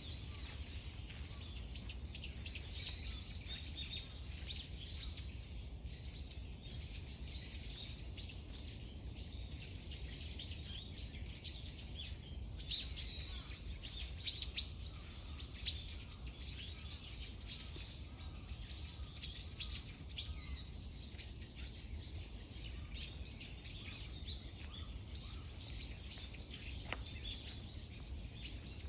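A chorus of songbirds chirping and calling together, many short high chirps overlapping, busiest about halfway through. A steady low rumble of background noise lies underneath.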